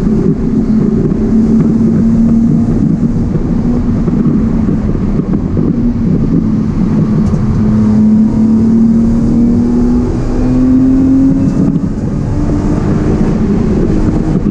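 E36 BMW 328i's 2.8-litre straight-six engine heard from inside the cabin while lapping a track, with road and tyre noise. The engine note holds steady, climbs slowly in pitch, then drops away about twelve seconds in.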